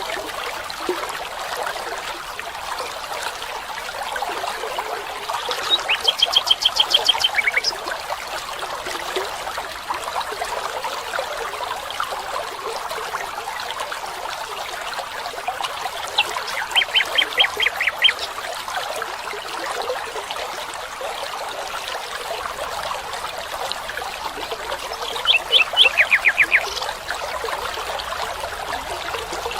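Running water trickling steadily, with a bird giving a quick rattling series of high repeated notes three times.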